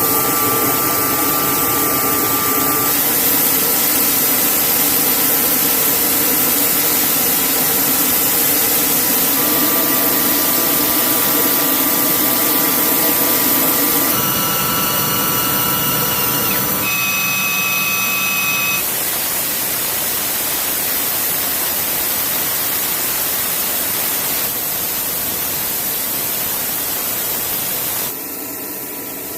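HH-60G Pave Hawk helicopter's engine and rotor noise, a loud steady rushing with a few steady whining tones. The mix shifts abruptly several times and drops in level near the end.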